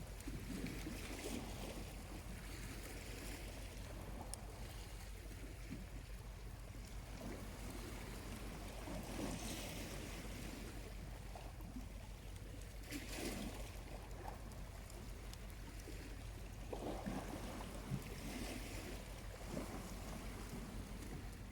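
Small waves washing in on a quiet beach, a soft hissing swell every few seconds, with a charcoal campfire crackling lightly and a sharp pop near the end.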